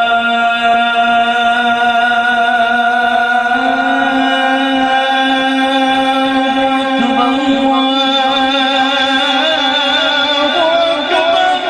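A man's voice holding one long melismatic note in the style of an azan call, stepping up in pitch a few seconds in and wavering near the end.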